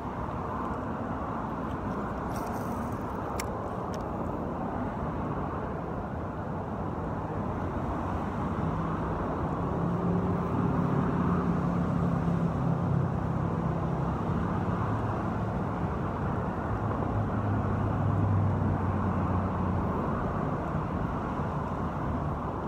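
Steady hiss of road traffic from a nearby highway, with the lower hum of passing heavier vehicles swelling from about ten to twenty seconds in.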